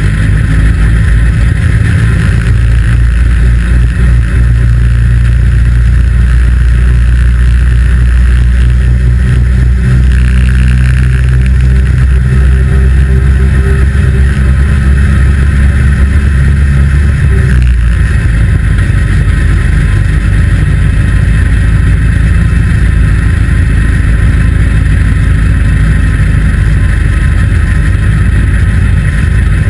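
A 2-litre saloon stockcar's engine running hard under racing, heard from inside the cockpit. Its note changes about eighteen seconds in.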